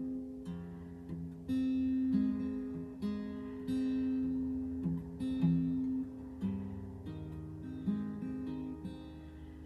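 Acoustic guitar being played, chords and single notes ringing out and changing every half second to a second.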